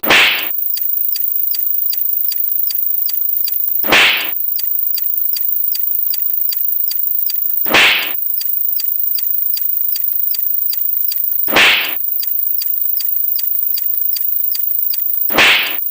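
Looped sound effect of steady rapid ticking, about four ticks a second, broken every four seconds or so by a short, loud whip-like swish. The swish comes five times.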